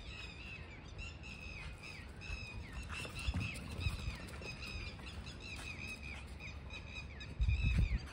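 Birds chirping over and over in short, downward-curving calls. A few dull low thumps, the loudest near the end.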